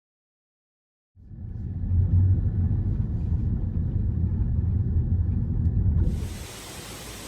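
A loud low rumble starts about a second in and runs for about five seconds. Near the end it gives way to a steady, even rush of falling water from the waterfall.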